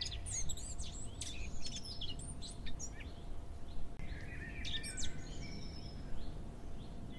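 Birds chirping and singing in short scattered calls and whistled phrases, over a steady low background rumble: an outdoor morning birdsong ambience.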